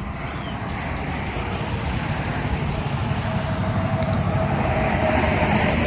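Highway traffic: a passing vehicle's tyre and engine noise growing steadily louder, with a steady whine coming in about halfway through.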